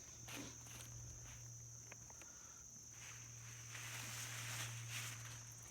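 Quiet garden ambience: a steady high insect trill over a low steady hum, with faint rustles and soft clicks from sweet potato vines and soil being pulled and handled, the rustling growing louder a little past the middle.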